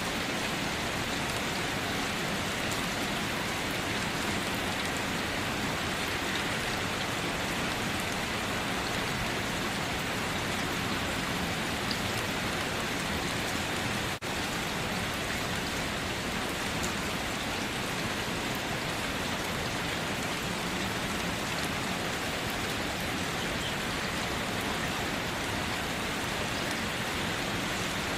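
Steady rain falling, an even dense hiss of drops with a very short dip in level about halfway through.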